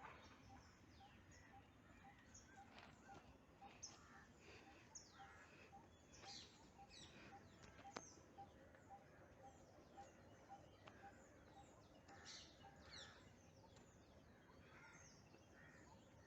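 Faint outdoor birdsong: several birds chirping with quick downward notes, over an even, softly repeated single note about twice a second.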